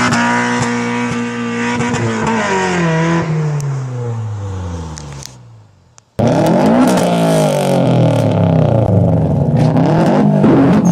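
Toyota AE86 Corolla's inline-four held at high revs while spinning its rear tyres in a burnout, then falling in pitch and fading out. After a brief gap, a Subaru Impreza WRX STI's turbocharged flat-four starts suddenly, revved repeatedly with its pitch rising and falling.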